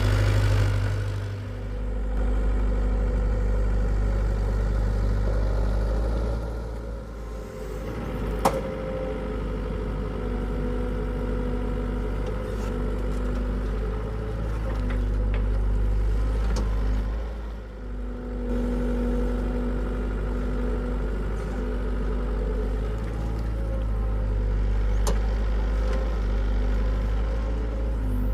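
Hitachi EX75UR excavator's diesel engine running under varying load as it digs, the engine note swelling and easing with a hydraulic whine that comes and goes. A single sharp knock about eight seconds in.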